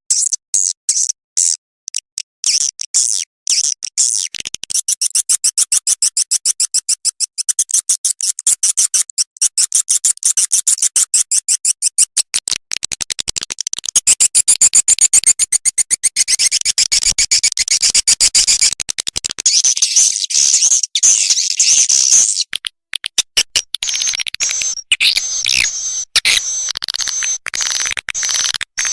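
Swiftlet lure sound: a dense, rapid stream of high-pitched swiftlet chirps and twitters played back as a call track to draw swiftlets into a swiftlet house. About two-thirds of the way through the pattern turns choppier over a steady high tone.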